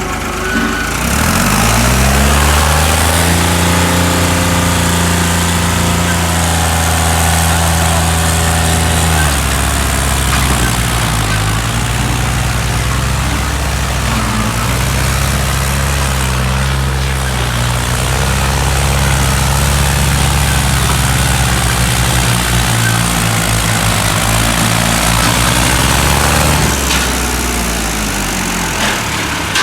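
New Holland 3630 tractor's diesel engine revving up about a second in and held at high revs under heavy load as it pulls a loaded sugarcane trolley. The pitch eases slightly about nine seconds in, then falls away near the end as the engine drops back.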